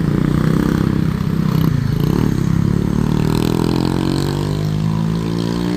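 Vehicle engine pulling up a steep climb under load, its note rising slowly in pitch through the second half.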